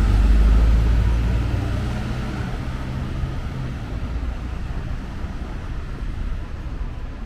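A motor vehicle's engine drone, loud at first and fading steadily as it moves away, over the steady noise of street traffic.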